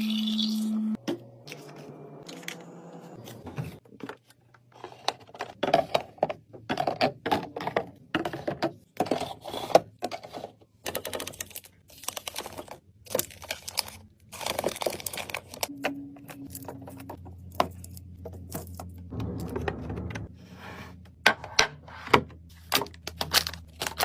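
Packaged food and containers being handled while restocking a fridge: plastic packaging crinkling, with many small clicks, taps and thunks as items are set down.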